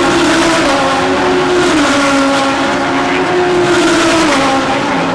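GT3 race car engine running at speed, its pitch dropping about two seconds in, climbing again and dropping once more near the end.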